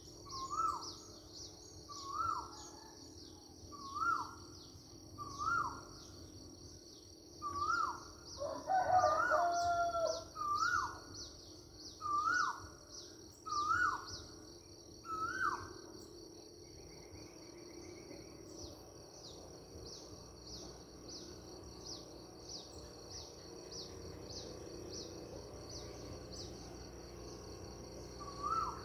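A bird repeating a short, quick rising-and-falling call about every second and a half, about ten times, then falling silent until near the end, with a louder, longer call about nine seconds in. A steady high-pitched rapid chirring runs underneath.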